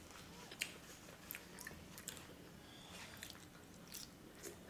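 Faint chewing of food, with scattered soft wet mouth clicks and light crunches, the sharpest about half a second in.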